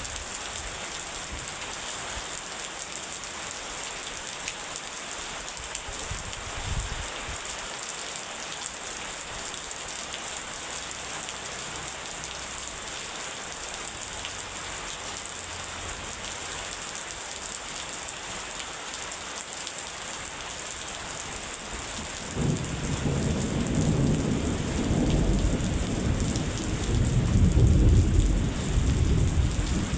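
Steady rain hiss throughout. About two-thirds of the way through, a rolling thunderclap sets in suddenly and keeps on rumbling, growing louder towards the end.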